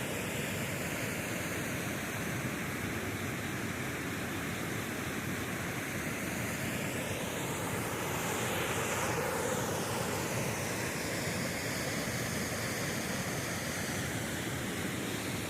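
Waterfall pouring into a pool, a steady rushing of water that swells slightly about halfway through.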